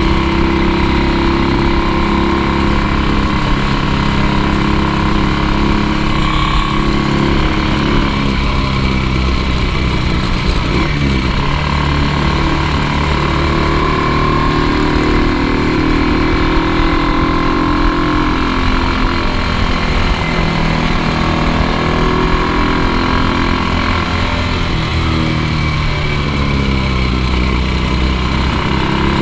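1958 Ducati 175 Sport's single-cylinder four-stroke engine running under way through a series of bends, its pitch falling as the throttle is closed and rising again as it pulls out of each bend.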